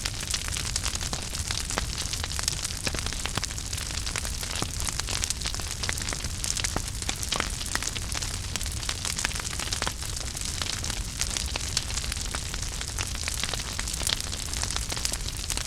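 Wood fire burning in a fireplace: a steady hiss and low rumble with dense, irregular crackles and pops throughout.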